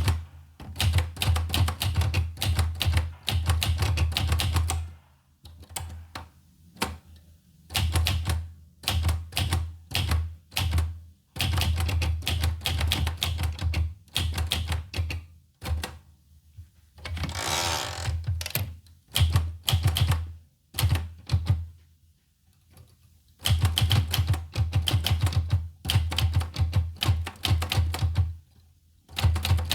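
Olivetti Lettera 25 manual portable typewriter being typed on: runs of rapid key strikes broken by short pauses, with one longer sliding rasp about seventeen seconds in.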